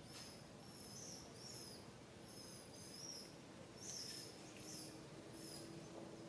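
Faint, high-pitched bird chirps, repeated in short phrases every half second or so.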